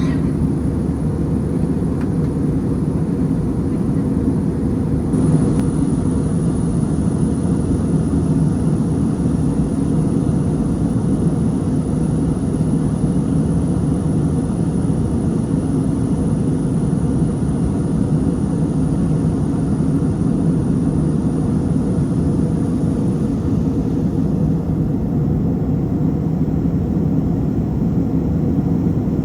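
Airliner cabin noise in flight: the steady, even rumble of engines and airflow heard from a passenger seat.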